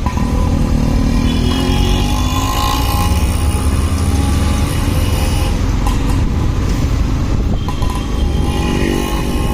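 Motorcycle engine running under way, its pitch rising and falling with the throttle, over a heavy low rumble of wind and road noise.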